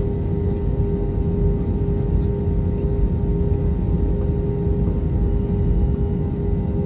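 Cabin noise of an Airbus A321 with its CFM56 engines at idle before the takeoff roll: a steady low rumble with a steady whine held at one pitch.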